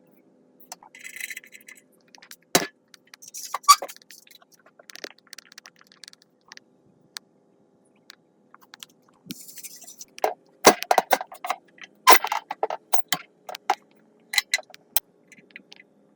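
Hand work on metal parts: irregular scraping, clinks and knocks of tools and metal pieces, with a quick run of sharp knocks in the second half.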